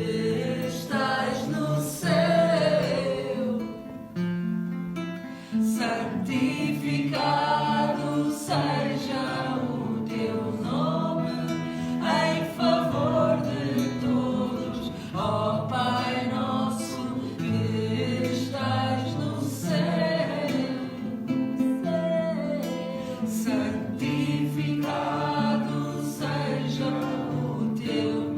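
A group of voices singing together over acoustic guitar: a live performance of a chant-like devotional song.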